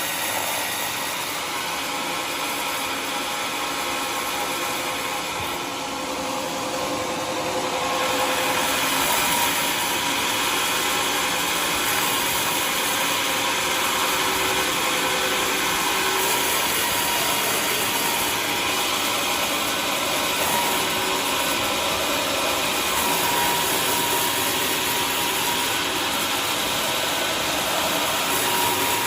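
Homemade sawmill running steadily while sawing a waru log, its engine and saw giving a dense mechanical noise that grows louder about eight seconds in.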